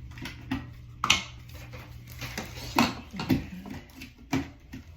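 Knocks and clicks from handling a plastic hair dryer and its cord, the dryer not yet running. A low hum stops about a second in.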